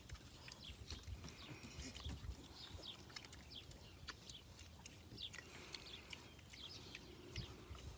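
Pigs moving about and grunting faintly, with many brief high chirps over the top.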